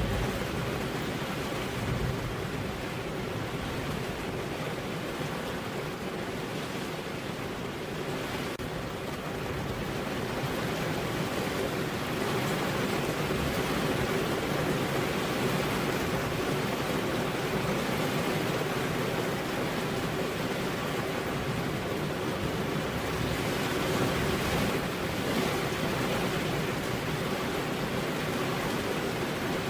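Steady rain: an even, unbroken hiss that grows a little louder about ten seconds in.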